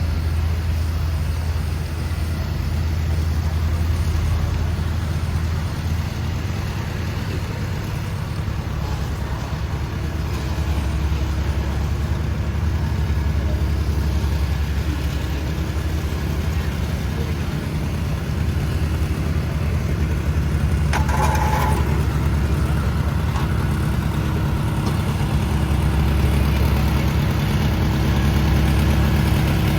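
A motor vehicle engine running nearby, a steady low rumble. A short higher-pitched sound cuts in briefly about three-quarters of the way through.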